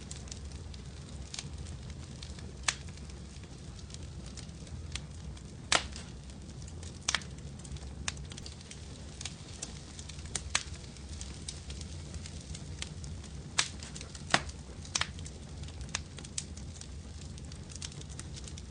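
Fireplace fire crackling: a steady low rumble of burning with irregular sharp pops, a few of them louder.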